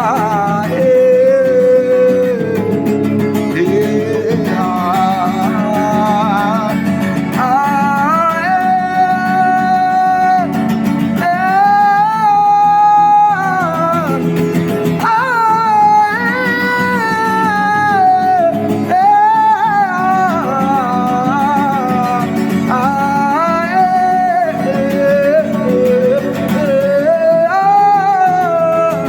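Gospel worship song: a solo voice singing long held and gliding notes over steady acoustic guitar chords.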